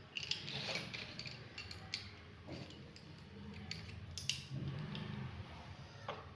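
Drawing pens and tools being handled on a desk: irregular light clicks and taps.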